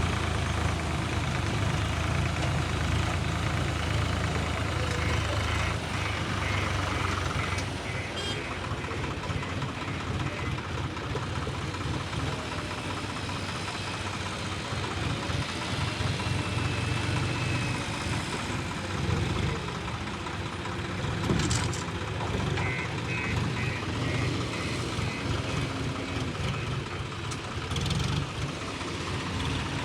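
Heavy diesel engines of a JCB earthmover and a tractor running steadily at work. A rapid high electronic beeping sounds twice, once several seconds in and again past the middle.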